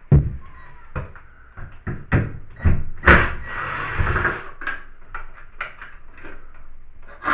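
A string of knocks and clunks from tools and parts being handled at a bathtub tap, with a rushing noise of about a second and a half a little after three seconds in.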